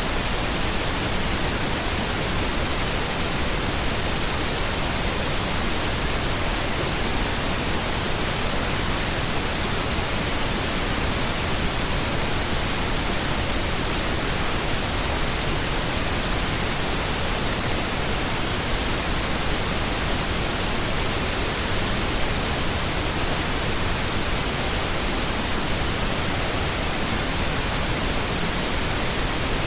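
Steady pink noise: an even, unchanging hiss with no pattern or events, spread across the whole frequency range with more weight in the lows.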